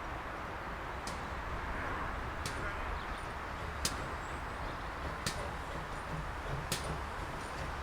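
Steady outdoor background noise with a low rumble, and a sharp tick about every second and a half.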